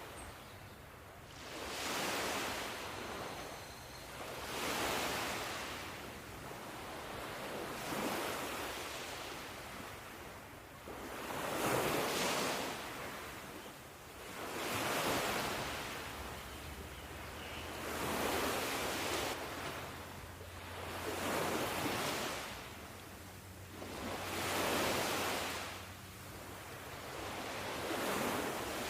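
Ocean waves breaking and washing up on shore, a rushing surge that swells and ebbs about every three seconds.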